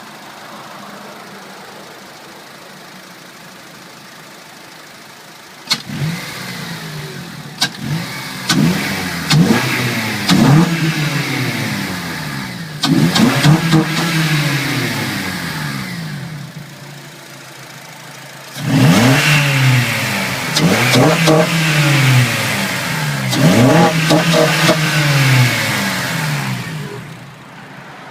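Acura TSX engine breathing through a Tejima intake and Skunk2 exhaust, idling and then revved repeatedly, each rev climbing and falling straight back to idle. Two runs of quick revs, with a short idle between them and a few sharp cracks at the start of the first run.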